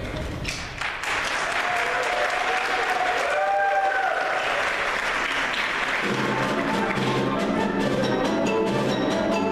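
Audience applause, with faint sustained notes beneath it; about six seconds in, band music starts up again with a steady pulse.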